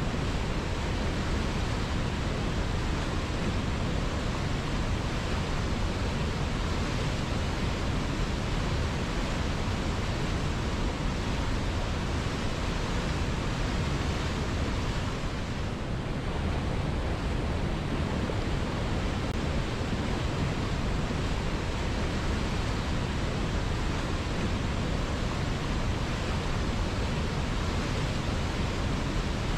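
River water flowing: a steady, even rushing with no breaks, dipping slightly softer in the treble about halfway through.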